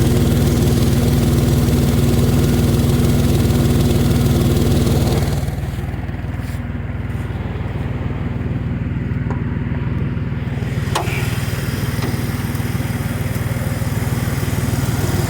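Dodge pickup truck engine idling steadily, with an exhaust leak that the owner has spotted at a badly done exhaust repair. About five seconds in the sound turns duller and quieter, then slowly builds back, with a sharp click around eleven seconds in.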